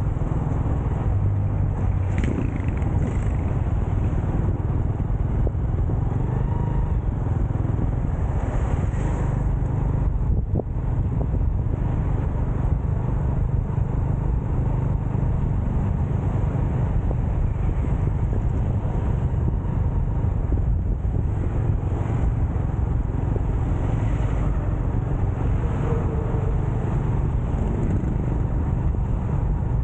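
Motorcycle riding along at a steady pace, its engine and road noise picked up by an onboard camera, with wind buffeting the microphone.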